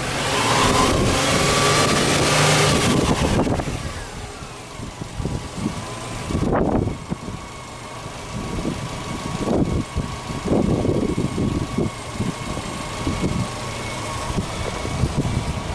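Subaru GC8 Impreza WRX's turbocharged flat-four boxer engine free-revving with the hood open. A held rev lasts about the first three seconds, then a series of short throttle blips follows over the idle.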